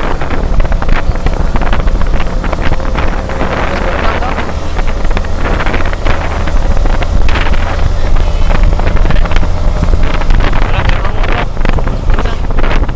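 Wind buffeting the camera microphone of a Yamaha Vixion R motorcycle on the move, with the bike's engine running as a steady low drone underneath.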